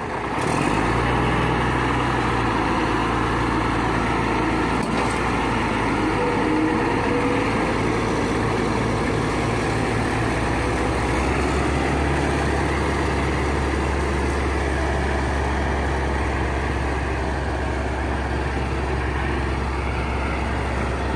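Heavy diesel engine running hard under load, jumping in level about half a second in and settling to a lower, steady note a little past halfway, as the bulldozer pushes the stuck tractor free.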